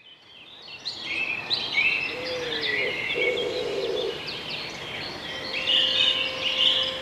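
Birdsong: several birds chirping with quick rising and falling notes, fading in over the first second. About five seconds in, a steady held tone comes in beneath it.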